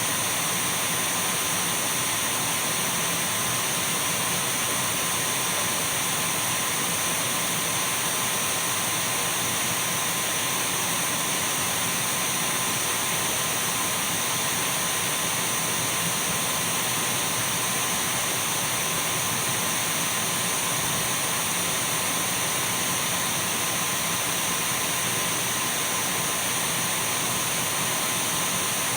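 Dyson V12 cordless stick vacuum cleaner running continuously at a constant speed: an even rushing hiss of air with a steady high whine from the motor, unchanging throughout.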